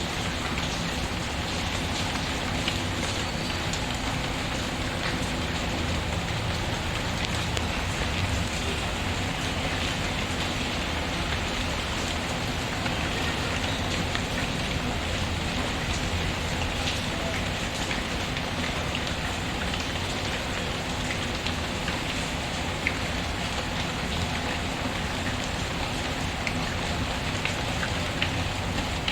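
Steady rain pattering, with scattered small crackles and pops from a wood fire in a fireplace.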